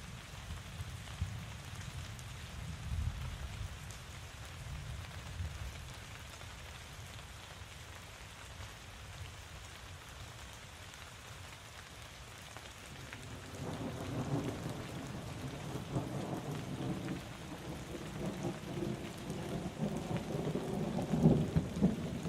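Steady rain falling, with low rumbling thunder early on fading out, then a longer roll of thunder building from a little past halfway and growing louder toward the end.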